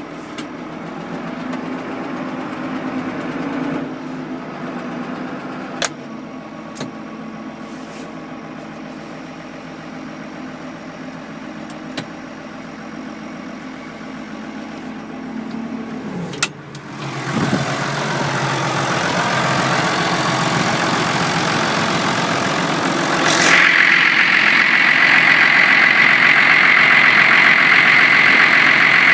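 Massey Ferguson 6290 tractor's diesel engine running at a steady low speed, with a few sharp clicks. About halfway through it gets louder and rougher. Near the end it steps up again and a high steady whine joins in.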